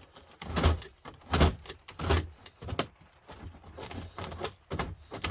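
Scrap humidifier radiator being worked apart by hand: a series of irregular clinks, knocks and scrapes of aluminium fins and copper pipe.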